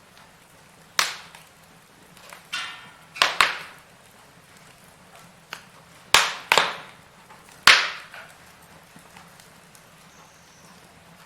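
Firewood burning in a fireplace, crackling with six or so sharp pops and snaps, the loudest near the middle, over a faint steady background of the fire.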